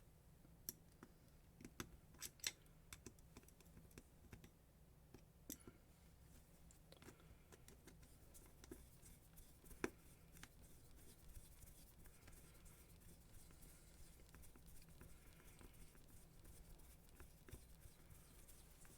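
Near silence with scattered light clicks and taps, a sharper one about ten seconds in, typical of small parts being handled.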